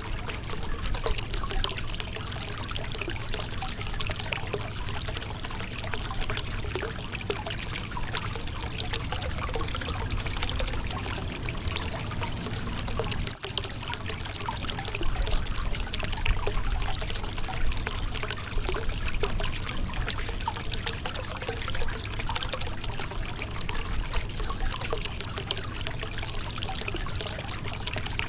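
Shallow river water running over rocks: a steady trickling and splashing with many small splashes. It drops out for an instant about halfway through.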